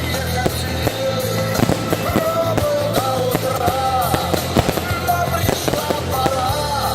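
A song with a sung melody plays over fireworks: many irregular sharp bangs and crackles from the shells bursting.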